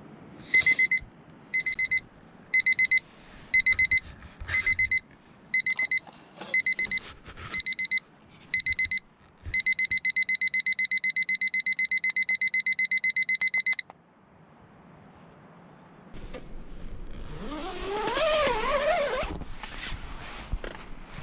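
Electronic alarm beeping in short groups about once a second, then going over to rapid continuous beeping for about four seconds before it cuts off. A few seconds later comes a drawn-out wavering vocal sound that rises and then falls.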